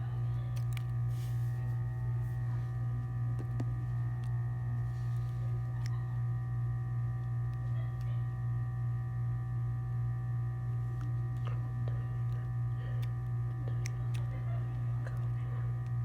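A steady low hum with several faint steady higher tones above it, unchanging throughout, with a few faint scattered light clicks.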